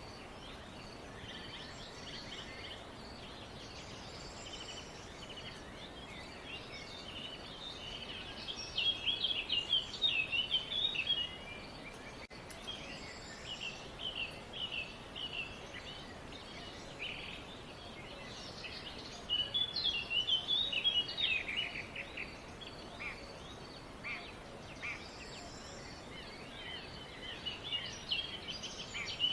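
Several birds chirping and twittering together, with loud bursts of rapid twittering about a third of the way in, again about two thirds in and near the end, over a steady faint hiss.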